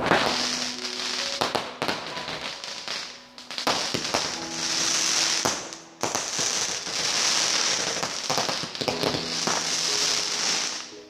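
Fireworks going off in three long spells of dense crackling, each broken by sharp pops and bangs.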